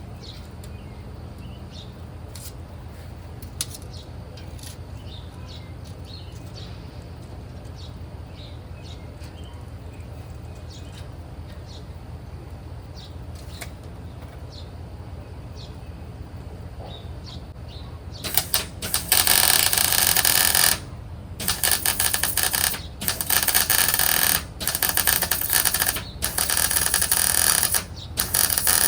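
Metalworking on a truck's steel: a series of loud, harsh bursts, each a second or two long with short breaks, starting about two-thirds of the way in, over a steady low hum.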